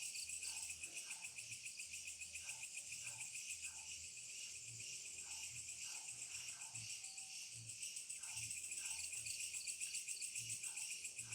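Night chorus of crickets trilling, a dense fast-pulsing high buzz. Fainter short calls come every second or so beneath it.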